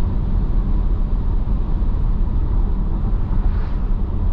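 Steady road and tyre rumble with engine drone inside a car's cabin at highway speed, heavy in the low end.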